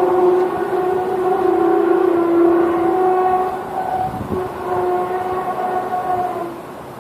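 A long, loud horn-like drone holding one steady pitch, swelling and weakening and dying away near the end: the kind of moaning tone posted as an unexplained 'strange sound' in the sky.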